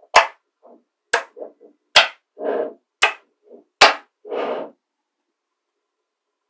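Small magnetic balls snapping together: five sharp clicks about a second apart, some followed by a brief rattle as the balls settle against each other.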